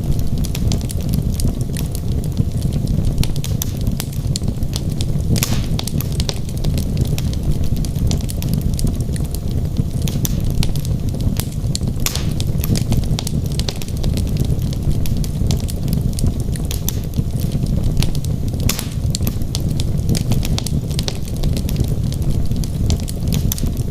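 Wood fire burning in a fireplace: a steady low rumble of flames with frequent small crackles and a few louder pops of burning logs.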